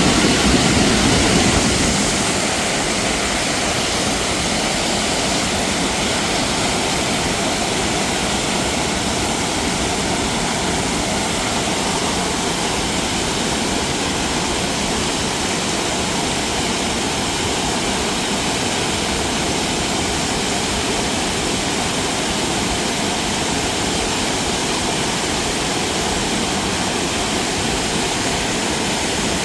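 Rushing water from a mountain waterfall or stream, a steady, even roar with a deeper rumble that eases about two seconds in.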